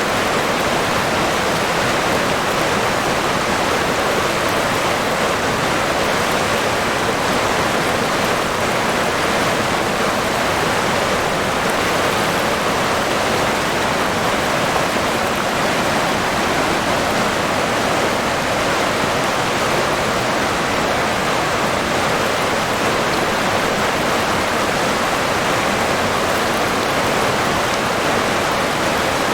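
River water rushing and burbling over rocks, a steady, unbroken rush.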